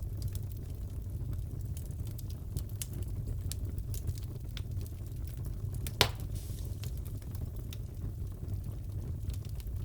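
Wood fire crackling in a fireplace: a low steady rumble of flames with scattered small snaps, and one loud pop about six seconds in.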